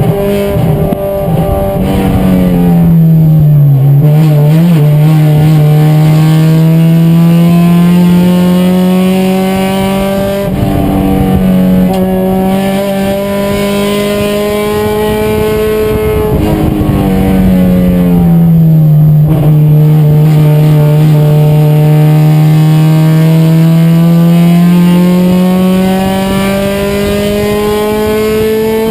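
Race car engine running hard at high revs. Its pitch drops twice, at about 3 and 18 seconds in, as the car slows, then climbs steadily again under acceleration.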